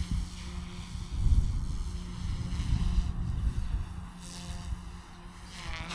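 Goosky S2 MAX Legend electric RC helicopter flying in idle-up, a steady hum under gusty wind buffeting on the microphone.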